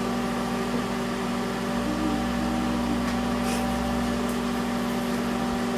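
Microwave oven running: a steady electrical hum with its fan whirring.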